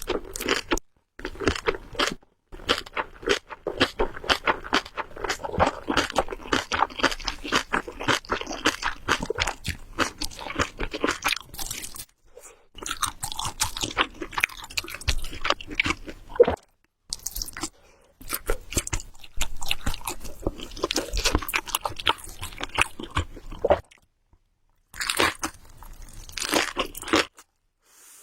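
A person chewing food close to the microphone: rapid, crackly wet mouth sounds in long spells, broken by short pauses.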